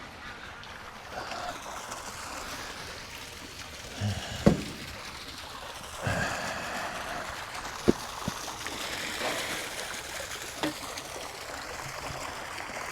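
Water running and trickling steadily, broken by a few sharp knocks; the sharpest comes about eight seconds in.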